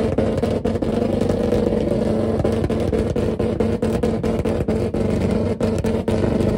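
Nissan 350Z's 3.5-litre V6 held at high revs with a steady exhaust note, cut through by rapid irregular pops and crackles.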